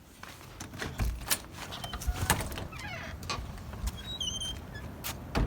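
Wind buffeting a phone's microphone in a snowstorm, in low rumbling gusts, mixed with knocks and rustles of the phone being handled.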